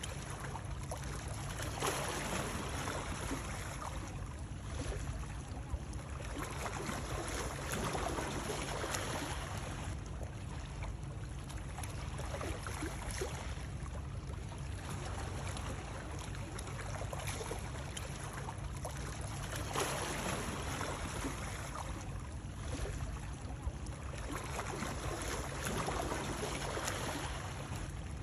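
Running water as soothing white noise: a steady rushing wash over a constant low rumble, swelling and easing every few seconds.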